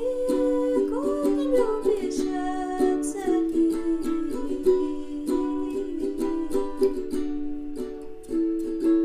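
Ukulele strumming chords in a steady rhythm to close out a song, with a final chord left ringing near the end.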